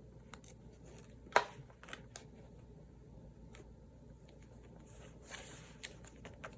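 Paper-crafting handling sounds at a desk: scattered small clicks and taps, one sharper click about a second and a half in, and a brief paper rustle near the end.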